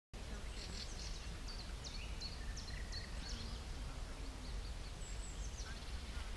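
Songbirds chirping and singing in quick, high notes, thickest in the first half and again near the end, over a steady low rumble.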